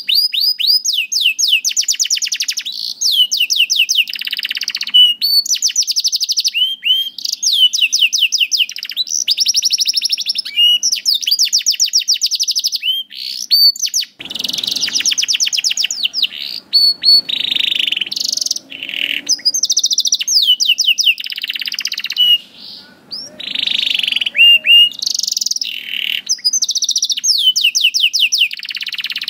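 Canary singing a long, continuous song of rapid trills and rolling runs of quick repeated sweeping notes, high-pitched, with a brief lull about 22 seconds in.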